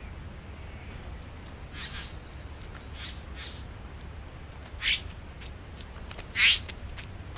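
Satin bowerbird giving a series of short, harsh, rasping calls, the two loudest about five and six and a half seconds in, with a few faint clicks between, over a steady low background rumble.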